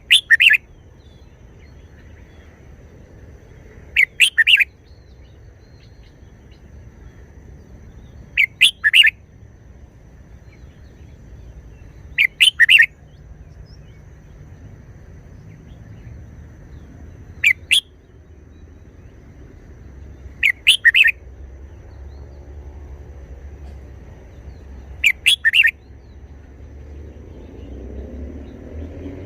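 Red-whiskered bulbul singing short, loud song phrases, seven in all, each under a second and spaced about every four seconds, over a faint low background hum.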